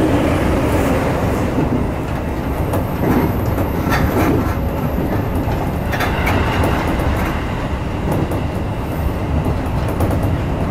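Seibu Shinjuku Line electric commuter train running, heard from the front cab: steady rumble of wheels on rails with a few clacks over rail joints.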